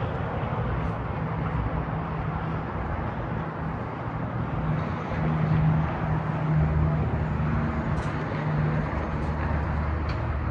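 Heavy dump truck's Cummins X15 turbo diesel running steadily, its low drone shifting slightly about six and a half seconds in.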